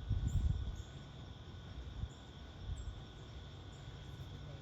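Steady high-pitched insect chorus, like crickets, trilling without pause. There is a low rumble during the first second.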